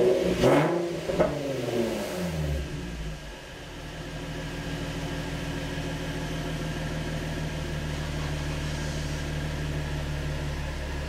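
Car engine coming down from a couple of throttle revs, its pitch falling away over the first two seconds, then settling about three seconds in to a steady idle after a throttle-body idle relearn.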